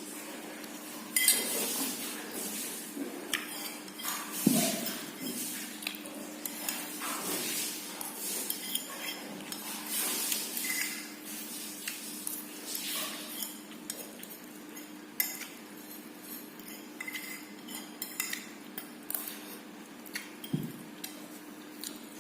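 Metal cutlery clinking and scraping against a plate while instant fried noodles are eaten: many short, irregular clinks, over a faint steady hum.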